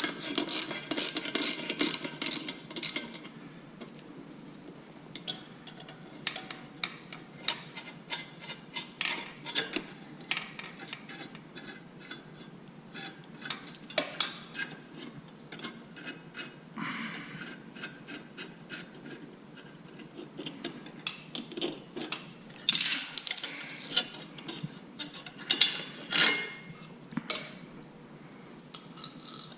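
Hand tools and metal exhaust hardware clicking and clinking at irregular intervals while a motorcycle slip-on exhaust is being fitted, with a quick run of even clicks in the first three seconds and a busier cluster of clinks about two-thirds of the way through.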